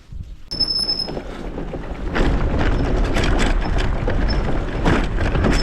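Motorcycle running on the move, with wind buffeting the microphone; it comes up about half a second in and stays loud and steady.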